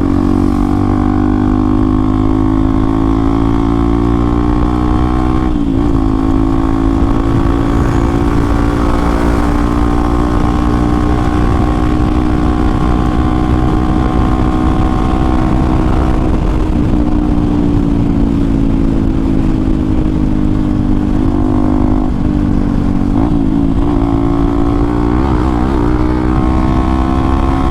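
Hero XPulse 200 4V's single-cylinder engine through an Akrapovic exhaust with the dB killer removed, running steadily under way at near-constant revs. The revs dip briefly about six seconds in and again later, and waver near the end with small throttle changes.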